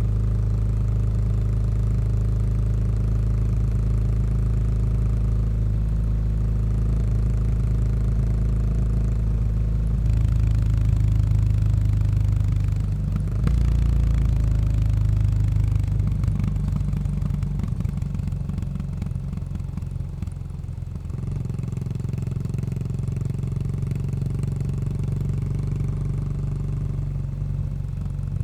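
Yamaha SR400's air-cooled single-cylinder engine running through a Goods tapered cone slip-on muffler. The exhaust note grows louder about ten seconds in and changes abruptly a few seconds later. It then eases off and settles into a steady, quieter run for the last several seconds.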